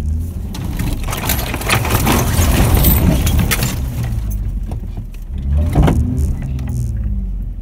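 Pickup truck engine revving under load in a deep, soft off-road track, with a loud rushing, scraping noise of spinning tires and brush against the body that builds and peaks around two to three seconds in; the engine surges again near six seconds as the truck bogs down and gets stuck.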